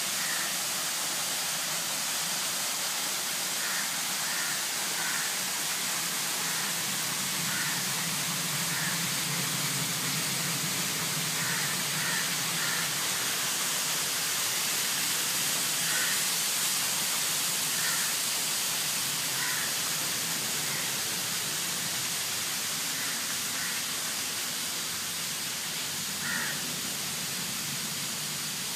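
House crows cawing, short harsh calls in twos and threes every few seconds, over a steady hiss.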